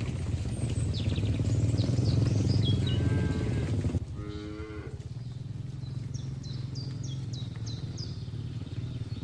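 Cattle mooing: a cow gives a drawn-out moo about three to five seconds in, while small birds chirp. A steady low rumble fills the first four seconds and cuts off suddenly.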